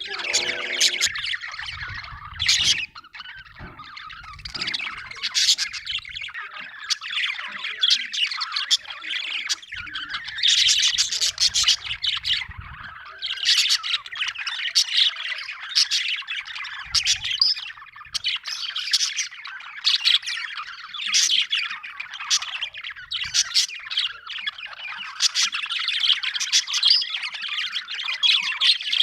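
A flock of parrots chattering and squawking without a break, many short high calls overlapping.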